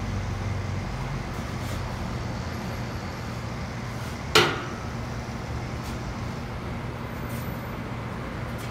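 Opel Astra J engine idling steadily through its exhaust, a low even hum. A single sharp knock sounds about four and a half seconds in.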